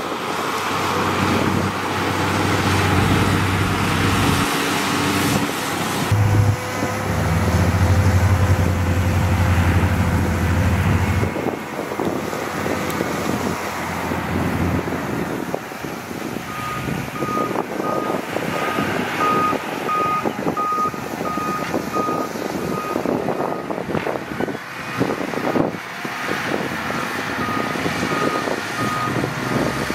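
Heavy diesel earthmoving machinery running under load with a deep engine rumble, loudest in the first third. In the second half a reversing alarm beeps about once a second.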